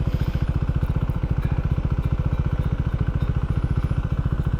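Can-Am Ryker three-wheeled motorcycle engine running steadily, with a rapid, even pulse.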